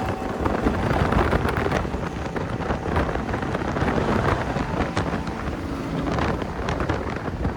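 A car driving, its engine and road rumble mixed with wind buffeting the microphone.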